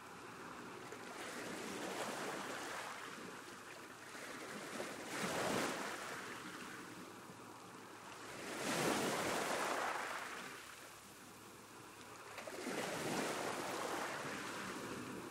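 Sea waves washing ashore, four surges that swell and recede every three to four seconds, the loudest just past the middle.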